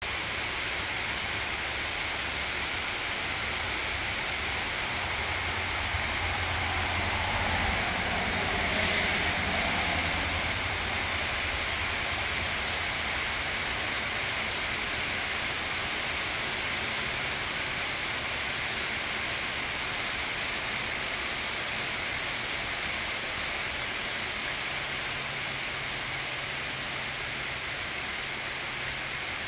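Rain shower falling steadily, a continuous even hiss, swelling a little about seven to ten seconds in.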